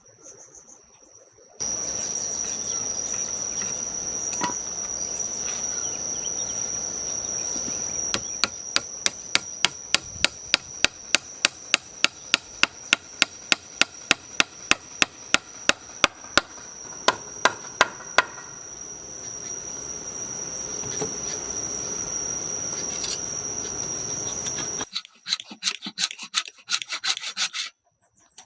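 Hand work on wood: a steady rubbing or scraping over a cricket's continuous high trill. Partway through comes a run of about thirty sharp, evenly spaced taps, roughly three a second. Near the end the sound cuts to a burst of quicker, rapid strokes.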